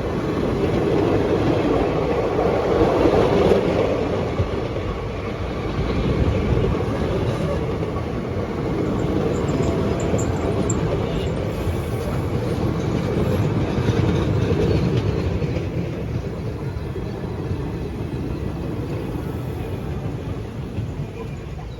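A train passing close by: continuous wheel-and-rail noise that eases off slightly near the end.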